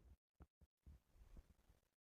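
Near silence: a pause between spoken phrases, with only faint room tone.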